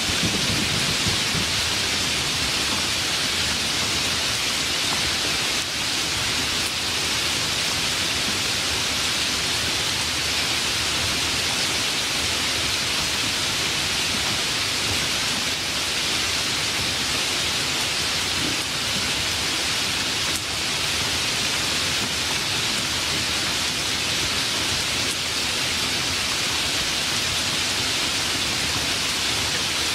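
Steady rain in a rainstorm: an even, unbroken hiss with no let-up.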